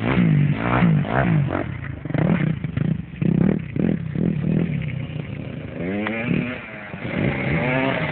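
Motocross bike engines revving, the pitch repeatedly climbing and falling.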